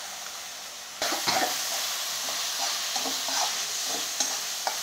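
Soaked moong dal and green chilli paste sizzling in hot oil in a kadhai, with a slotted spatula stirring and scraping through it. The sizzling gets louder about a second in, when the stirring starts.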